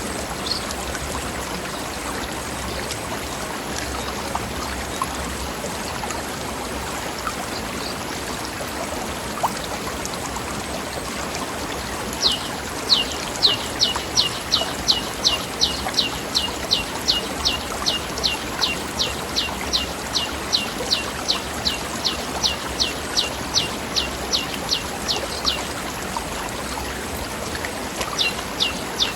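Stream flowing steadily over rocks. About twelve seconds in, a bird sings a long run of quick high notes, each sliding down in pitch, about three a second for some thirteen seconds, and starts again near the end.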